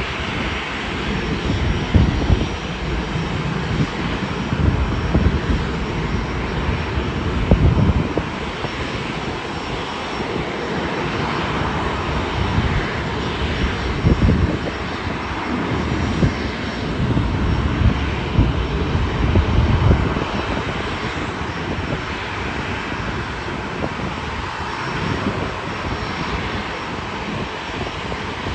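Airliner engines running loud and steady, with an uneven low rumble that surges and fades during the first two-thirds.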